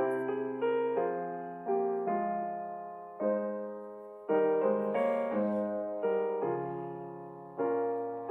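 Slow piano music: chords struck roughly once a second, each fading away before the next.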